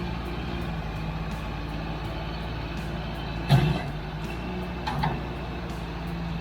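Heavy diesel equipment engine running steadily, with a loud metallic clank about three and a half seconds in and a smaller one about five seconds in.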